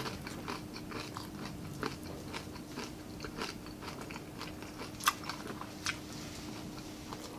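Close-up chewing of crispy deep-fried pork pinaputok, a run of irregular crunches and wet mouth clicks, with a couple of sharper crunches about five and six seconds in. A faint steady hum runs underneath.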